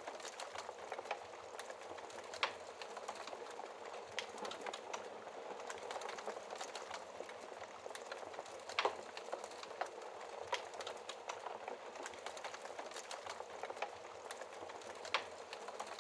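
Wood fire burning with a steady hiss and frequent sharp crackles and pops, a few louder pops scattered through, the loudest about nine seconds in.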